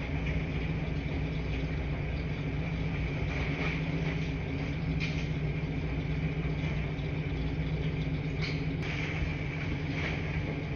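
Washing machines running in a laundry room: a steady low hum with a few faint knocks.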